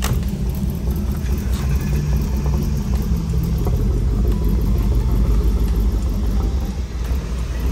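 A car engine running, loud and steady, its sound mostly low-pitched.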